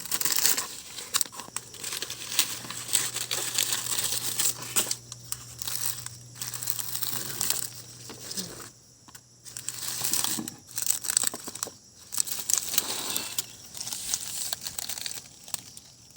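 Banana leaves being handled, crinkling and tearing in irregular bursts as a fish is wrapped in them. A faint low hum sits under the first two-thirds and stops about ten seconds in.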